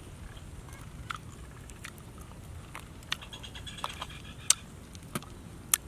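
Close-up mouth sounds of a man chewing grilled catfish: scattered sharp wet clicks and smacks, with a short run of small rapid crackles about three seconds in.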